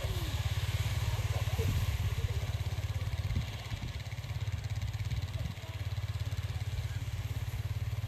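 Off-road vehicle engine running steadily with a rapid low pulsing, easing off briefly around the middle.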